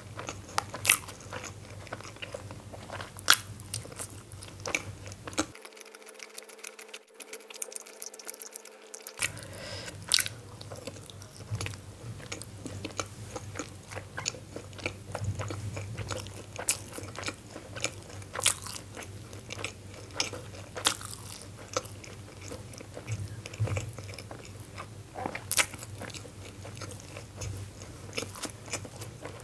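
Close-miked chewing and biting of soft steamed momos (dumplings) dipped in chutney: frequent, irregular wet mouth clicks and smacks over a low steady hum.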